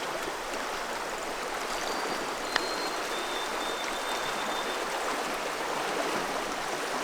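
River water rushing steadily over the riverbed. A single sharp click sounds about two and a half seconds in.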